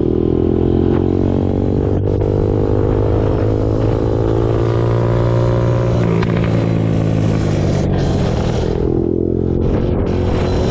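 Suzuki RM-Z250 dirt bike's single-cylinder four-stroke engine running under way. The revs climb steadily, drop about six seconds in, and climb again near the end.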